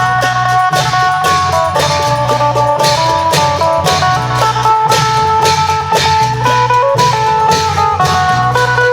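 Isan phin, a plucked lute, playing a quick melody over a steady beat of klong yao long drums and cymbals, with a low drone underneath.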